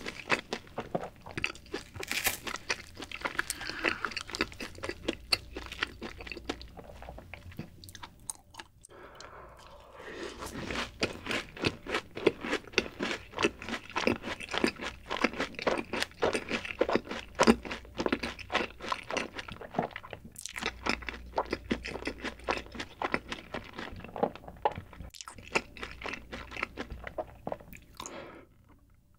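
Close-miked chewing of a fried cheese ball, its crisp crust crunching with many small crackles, easing off briefly about eight seconds in before the crunching picks up again.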